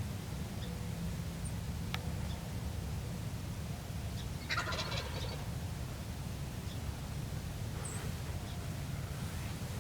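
A wild turkey gobbler gobbling once, a rattling call of under a second about halfway through, over a steady low rumble.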